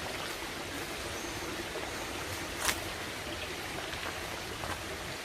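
Steady rushing of stream water, with a single sharp click about two and a half seconds in.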